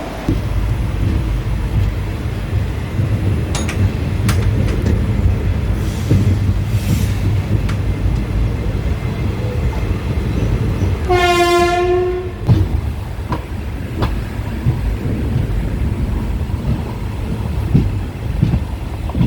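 Passenger train running, with a steady low rumble of wheels on rails and a few sharp clacks at rail joints. About halfway through, a train horn sounds once for about a second.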